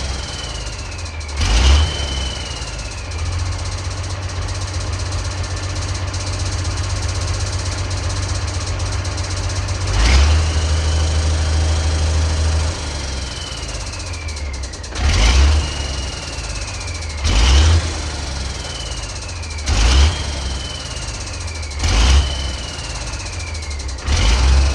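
Ford D-series 1314's turbocharged engine running, its throttle blipped about seven times, with a louder stretch held from a few seconds in until about 13 s. Each blip is followed by a whistle falling in pitch as the turbocharger winds down.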